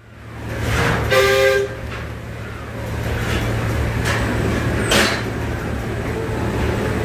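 Paddle steamer engine-room machinery with a steady low hum throughout. About a second in there is a short horn-like toot of about half a second, and two sharp knocks come around four and five seconds in.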